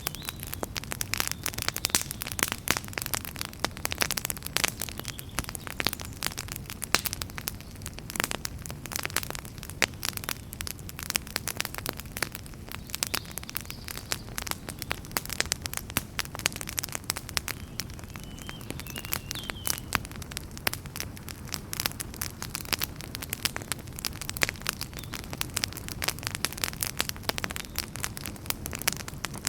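Wood fire in a fireplace crackling: dense, irregular pops and snaps over a low, steady rumble of the flames.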